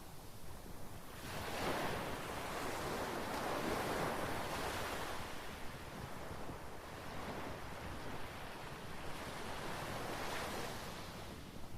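Mediterranean sea waves washing onto the shore, the surf swelling and easing back every few seconds, with some wind on the microphone.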